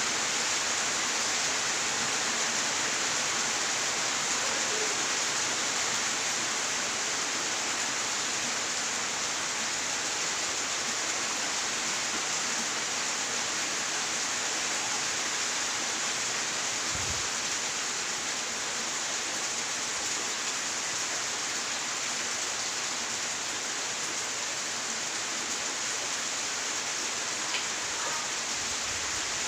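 Steady rain falling, an even dense hiss, with a faint low thump about two-thirds of the way through.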